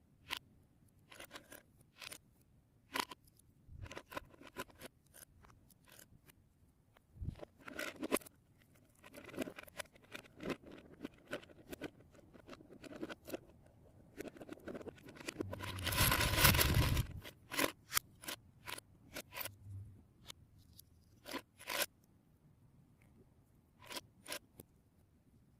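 Plastic Lego Technic pieces clicking, snapping and being handled, in scattered sharp clicks, with a louder spell of rattling about two seconds long around the middle.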